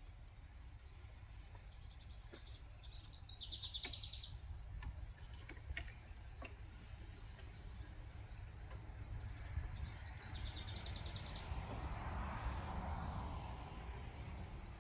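Two short bursts of rapid bird chirping, about three seconds in and again about ten seconds in, over a low steady outdoor rumble, with a few faint clicks in between and a brief swell of hiss near the end.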